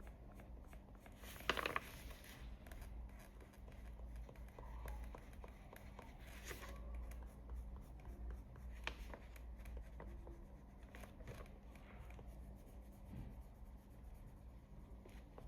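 Coloured pencil scratching lightly over paper in short blending strokes, with one louder scrape about a second and a half in. A low steady hum runs underneath.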